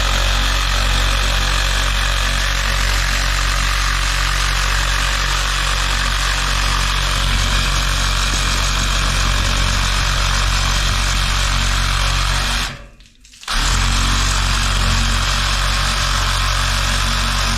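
Power saw running steadily as it cuts through a steel steam pipe, dropping out abruptly for under a second about two-thirds of the way through before running on.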